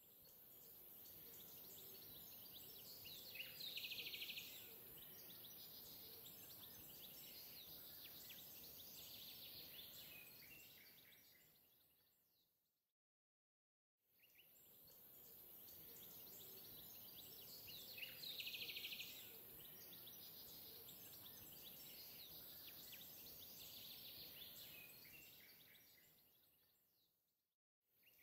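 Faint outdoor ambience of birds chirping over a steady hiss. The same stretch fades in, fades out and plays again, with a brief flurry of chirps about four seconds in and again about eighteen seconds in.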